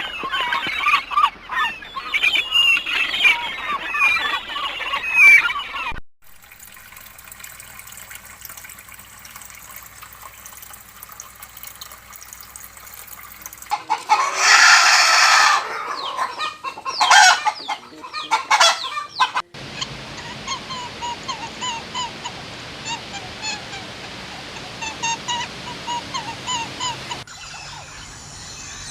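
Birds calling in a run of separate clips: a dense flurry of short calls, a quieter stretch, a loud burst of honking calls, then a steady series of short repeated calls. The sound cuts sharply from one clip to the next.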